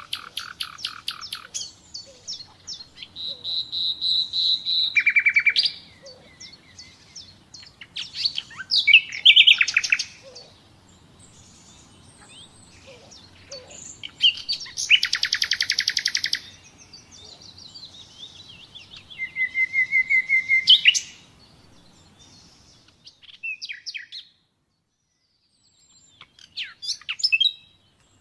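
Common nightingale singing: varied phrases of rapid repeated notes, pure held whistles and fast trills, separated by short pauses.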